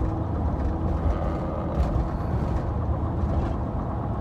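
Car running on the road, heard from inside the cabin: a steady low rumble of engine and road noise.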